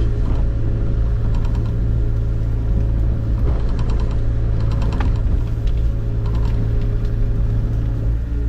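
Small diesel engine of a mini excavator running steadily, with scattered short clanks and knocks from the machine at work.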